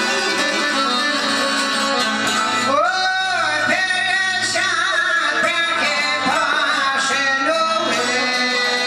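Albanian folk song: a male voice sings long, ornamented held notes over plucked-string accompaniment, the voice coming in about three seconds in.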